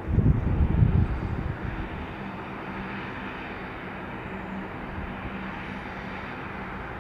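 Airbus A319 airliner's jet engines running: a steady rushing noise over a steady low hum, with a heavy low rumble in the first second and a half that then settles.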